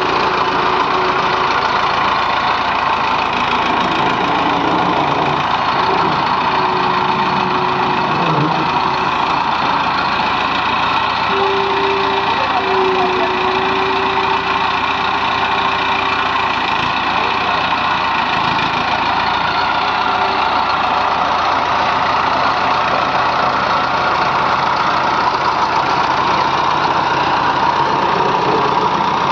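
Diesel engines of a JCB 3DX backhoe loader and a tractor running steadily, with a thin higher tone that comes and goes over the first two-thirds.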